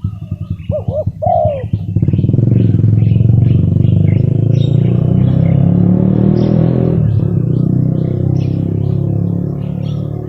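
A motorcycle engine passing close by, coming up loud after about a second and a half, changing pitch midway and fading toward the end, over small birds chirping. A spotted dove coos twice just before the engine rises.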